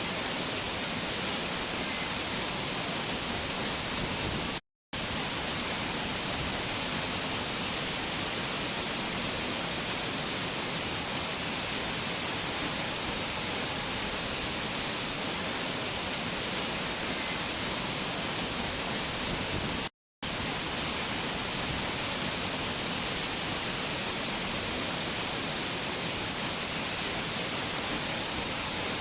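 Waterfall: a steady, even rush of falling water that cuts out to silence for a split second twice.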